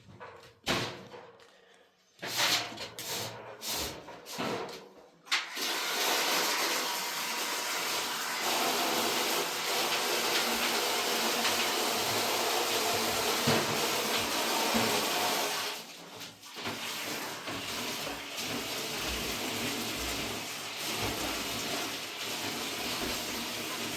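Water running and splashing steadily. A few short splashes come in the first five seconds, then a continuous flow that eases a little about two-thirds of the way through.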